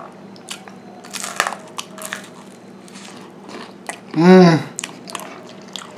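Crunching on a crisp rice cracker topped with spicy pork floss: a scattered series of sharp crunches as it is bitten and chewed. About four seconds in there is a brief vocal sound from the eater that rises and falls in pitch, the loudest moment.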